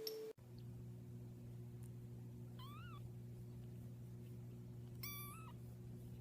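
A cat meowing three times: a short rise-and-fall meow about two and a half seconds in, a longer, flatter meow around five seconds, and a short rising one near the end, over a low steady hum.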